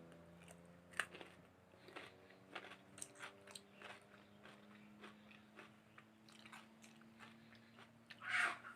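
Close-up chewing and biting of grilled meat: irregular crunchy clicks, with a louder, longer crunch near the end, over a faint steady hum.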